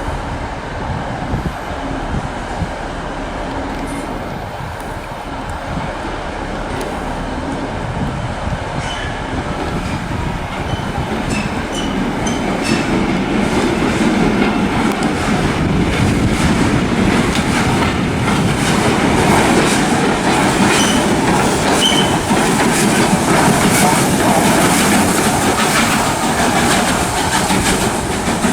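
A train running on the rails, growing steadily louder through the second half as it draws near, with a few brief high squeaks from the wheels.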